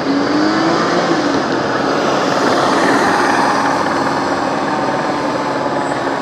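Fire apparatus passing close by: engine and road noise build to a peak about three seconds in and then fade, with the engine note rising as it accelerates early on.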